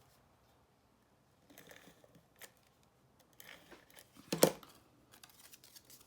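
Paper and cardstock being handled and pressed into place: soft rustles and small clicks, with one sharper, louder tap or snap about four and a half seconds in.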